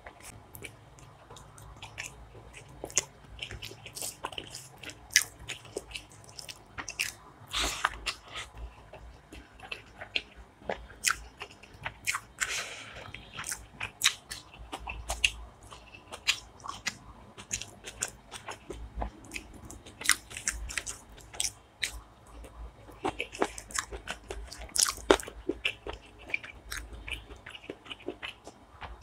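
Close-miked chewing and biting, with many sharp, irregular crunches, as a person eats spicy chicken feet and gizzard curry with rice.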